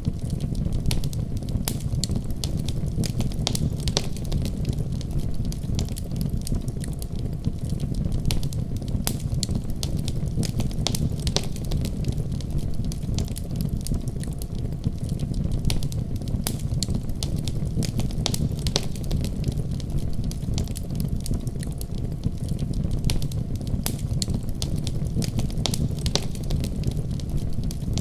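Wood fire burning: a steady low rumble of flames with frequent sharp crackles and pops scattered throughout.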